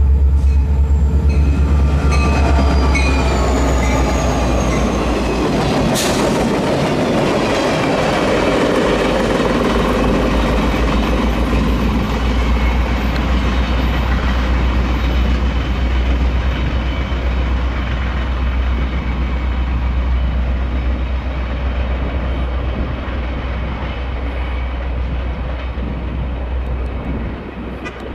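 Union Pacific diesel-electric locomotive passing, its engine pitch dropping as it goes by, with a sharp clank about six seconds in. Then the wheels of the work-train flat cars and caboose rumble and click over the rails, fading slowly as the train draws away.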